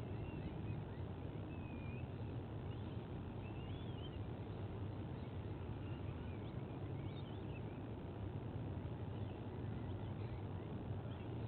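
Steady low wind rumble on an outdoor microphone, with faint, high, wavering bird chirps scattered through it.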